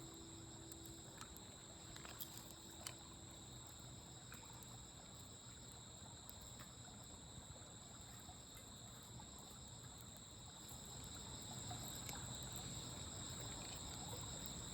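Faint, steady high-pitched chirring of insects such as crickets, with scattered small crackles and pops from a campfire.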